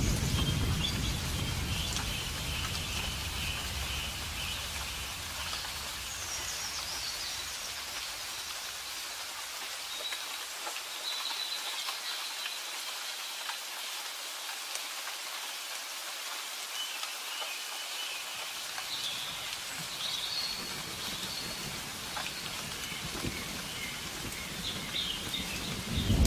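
Steady rain falling, with a low thunder rumble dying away over the first several seconds and a new rumble starting at the very end. Birds chirp now and then over the rain.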